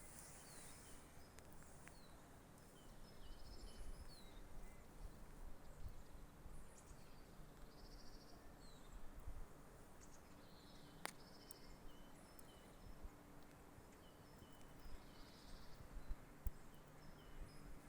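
Quiet forest ambience with faint, short high-pitched calls of small songbirds repeating every second or so, and a single sharp click about eleven seconds in.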